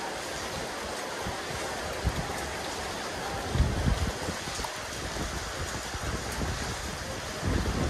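Steady rain falling on a rooftop terrace, an even hiss, with a few low rumbles of wind on the microphone about two seconds in, around three and a half seconds, and near the end.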